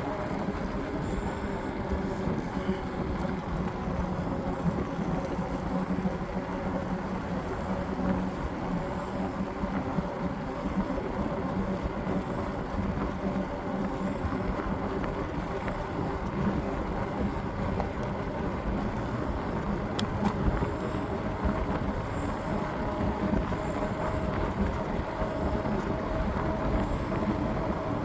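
Steady riding noise with wind on the microphone and a low, even hum underneath.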